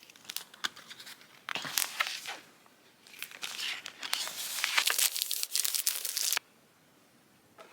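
Packaging being torn open and crinkled by hand, in rustling bursts with a few sharp clicks; a longer stretch of tearing in the second half cuts off suddenly.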